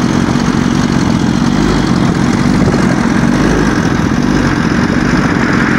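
2016 Kawasaki ZX-10R's inline-four engine idling steadily.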